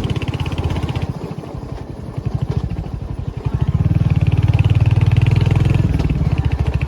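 Motorcycle engine running with a rapid low pulsing. It falls off about a second in and picks up louder again after about three and a half seconds.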